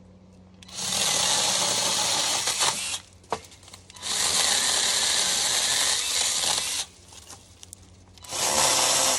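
WORKPRO 6.3-inch cordless electric mini chainsaw running in three bursts of about two to three seconds each, cutting wood.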